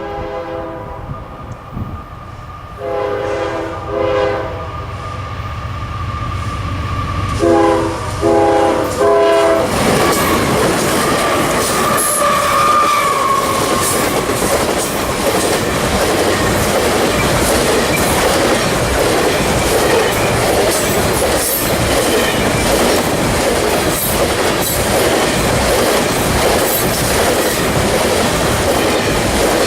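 A diesel freight train sounds its horn in several blasts as it approaches, over the low hum of the locomotive engines. About ten seconds in it reaches the microphone and passes, steel wheels clattering over the rail joints with a brief wheel squeal.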